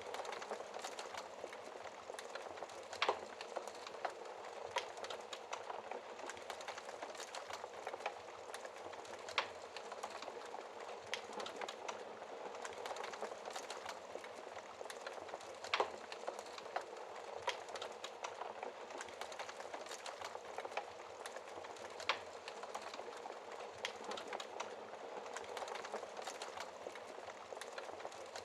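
Wood fire crackling in a fireplace: a steady hiss full of small quick crackles, with a few louder sharp pops every several seconds.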